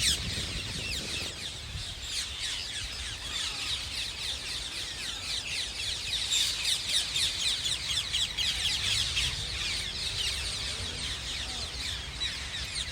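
A large flock of rose-ringed (ring-necked) parakeets squawking together: a dense, unbroken chorus of short, shrill, falling calls at a steady level.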